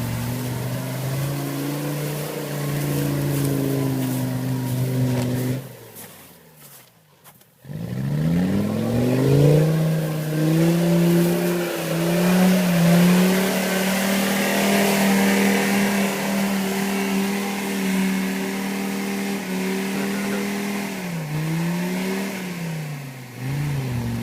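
Mercedes OM617 3.0-litre five-cylinder diesel in a UAZ off-roader, running hard under load. The sound almost drops out for about two seconds around six seconds in, then the revs climb steeply and hold high, with two brief dips in pitch near the end.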